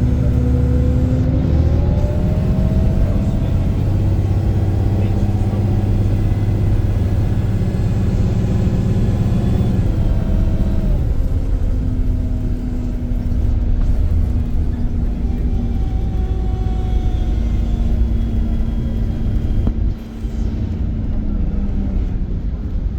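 Iveco Crossway LE city bus's diesel engine pulling hard on a kickdown, its pitch climbing over the first few seconds. About ten seconds in the revs drop as the automatic gearbox shifts up, and the engine pulls on steadily.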